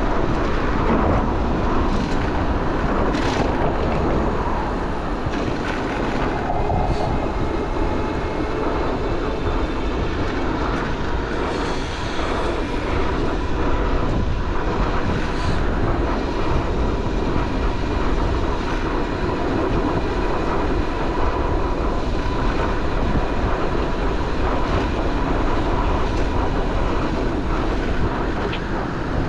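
Wind rushing over a bike-mounted camera's microphone while riding, mixed with city street traffic, steady throughout, with a few brief clicks.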